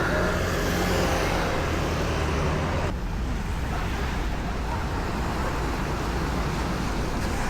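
Shower running: a steady rush of water spray, broken by an abrupt change about three seconds in.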